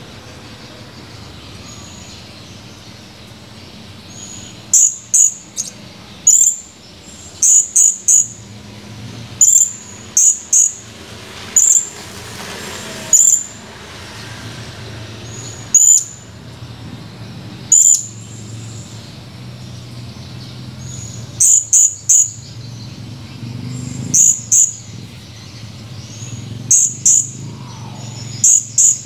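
Blue-crowned hanging parrot (serindit) giving short, shrill, very high calls, singly and in quick pairs or threes every second or two, starting about five seconds in, over a steady low hum.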